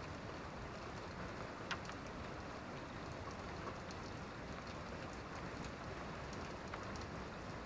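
Steady rain falling, with scattered close drips ticking and one sharper drop about two seconds in.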